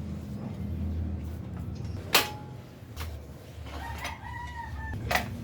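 A rooster crows once, a held call of about a second, near the end. About two seconds in, a sharp knock with a short ring is the loudest sound, and another knock comes just before the end, over a steady low hum.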